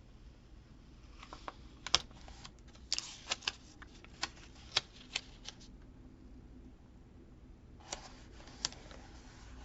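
Irregular light clicks and crinkles of sticker sheets and paper being handled at a desk: about a dozen short, sharp taps, bunched in the first half and a couple more near the end.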